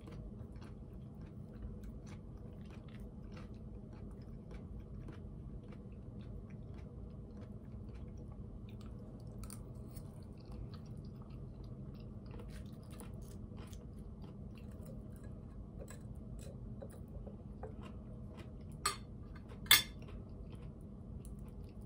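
Close-up chewing of a forkful of baked potato: soft wet mouth sounds with small faint clicks. Two sharp clicks stand out near the end.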